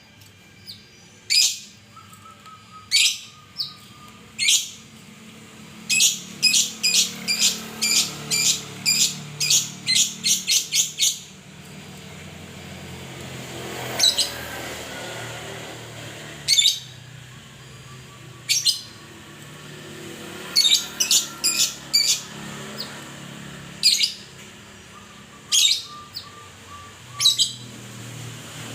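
Murai (Copsychus songbird) calling: sharp, high chirps, singly at first, then a quick run of about a dozen in the middle, then spaced out again. There are faint lower whistled notes in between.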